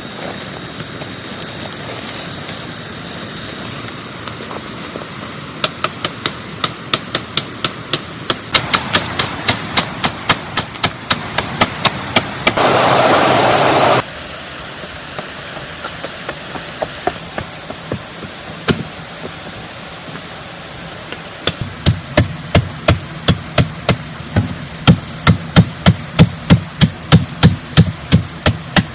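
Repeated hand-tool strikes, about two to three a second, in long rhythmic runs. About halfway through, a loud rushing noise lasts a second and a half. Near the end a run of heavier, deeper blows.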